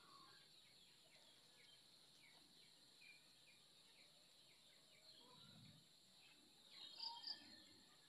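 Faint outdoor birdsong: many short chirps repeating throughout over a steady high insect drone, with a pair of louder chirps about seven seconds in.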